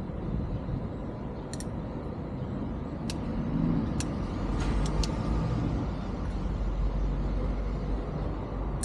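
Steady low rumble with a few short, sharp clicks scattered through it, from small parts being handled as rubber O-rings are fitted onto an oil filter cover.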